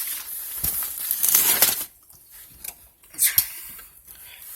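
Plastic-wrapped fireworks packs crinkling and rustling as they are handled, loudest over the first two seconds, with another short rustle and a knock about three seconds in.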